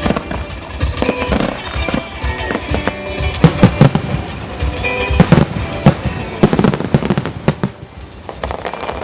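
Aerial fireworks shells bursting in a quick volley of sharp bangs and crackles, most of them packed into the middle of the stretch, over music played for a music-synchronised fireworks show.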